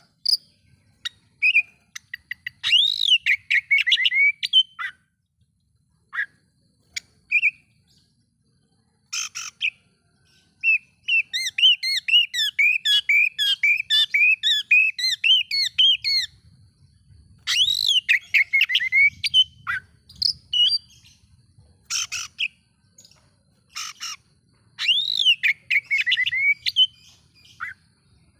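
Oriental magpie-robin (kacer) singing a varied song of quick rising-and-falling chirps, with a long fast run of notes near the middle and a few short harsh, scratchy notes in between.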